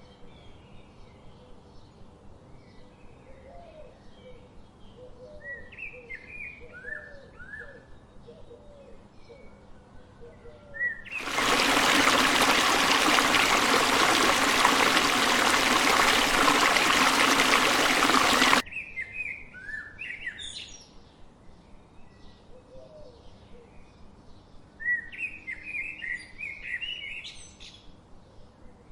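Several birds chirping and calling: short high chirps over a run of lower repeated calls. About eleven seconds in, a loud, even rushing noise, like water, cuts in abruptly, drowns everything for about seven seconds, then stops suddenly, and the chirping carries on.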